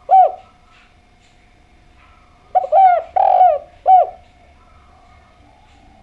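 Spotted dove cooing: one coo right at the start, then a full phrase of four coos about a second apart in the middle, the third the longest and loudest.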